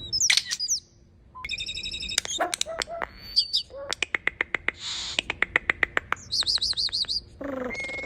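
European starling singing a varied medley of sliding whistles, a buzzy note and two rapid runs of clicks through the middle, ending on a wavering whistle and a held tone.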